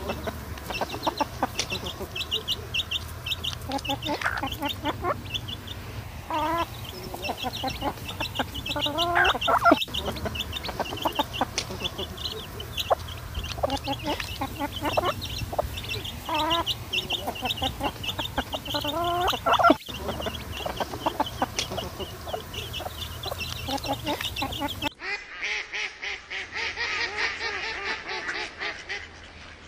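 Bird and poultry calls: a chorus of short, high chirps with louder calls coming back every few seconds. About 25 seconds in it cuts abruptly to another recording of rapidly repeated calls.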